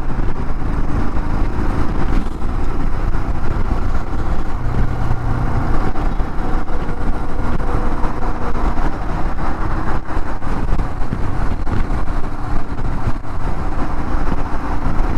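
Royal Enfield Himalayan's single-cylinder engine running at highway speed, with steady wind rush over the rider's microphone.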